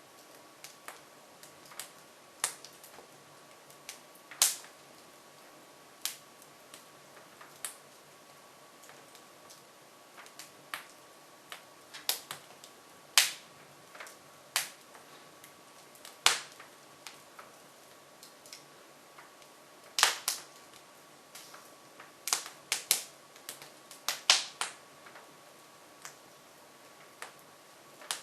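Hardwood fire crackling in an open-fronted Jøtul F500 wood stove: irregular sharp pops and snaps, a few of them loud, coming more often in the second half.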